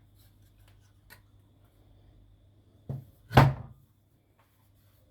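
A light knock, then a louder thump about half a second later, over a faint steady low hum.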